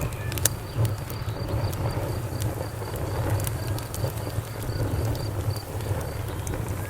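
Campfire crackling, with sharp pops over a low steady rumble of the burning wood. Behind it a cricket chirps in an even pulse of about four chirps a second.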